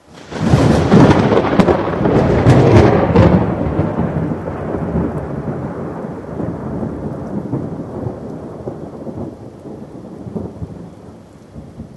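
Thunderclap: a sudden crack with crackling for the first few seconds, then a long low rumble that slowly fades away.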